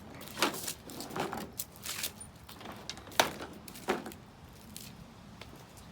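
Handling noise: a string of clicks, knocks and light rattles as the camera is moved and set in place, with one sharper knock about three seconds in. No engine is running.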